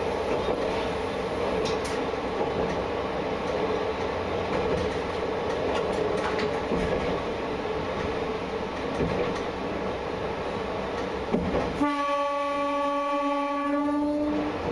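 Isumi Railway diesel railcar running along the line, with steady engine and wheel noise and an occasional faint click from the rails. About 12 seconds in, its horn sounds one steady note for about two and a half seconds.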